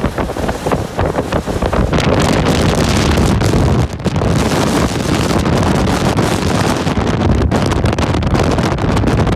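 Storm wind buffeting the microphone aboard a ship in heavy seas: a loud, continuous rushing noise, heavy in the low end, with a brief drop about four seconds in.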